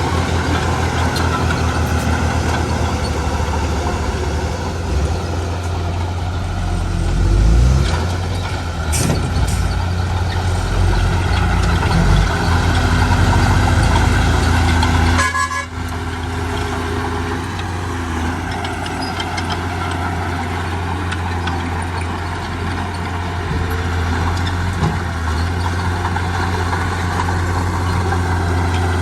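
Heavy diesel engines of earthmoving machinery running steadily, a bulldozer and dump truck working. The engine note shifts slightly, with a short break about halfway.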